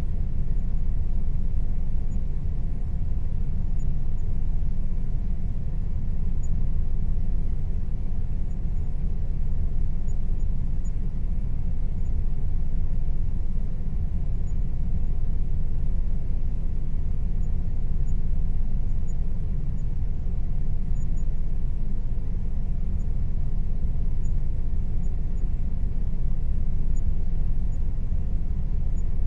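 Air conditioner running steadily: a constant low rumble with a faint, even hum tone above it.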